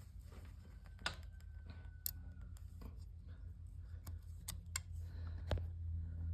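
Light metallic clicks and taps of hand tools and parts being handled during an engine teardown, over a steady low hum.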